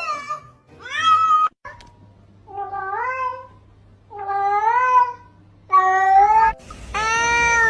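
Domestic cat meowing five times, each meow about a second long, its pitch bending up and then down.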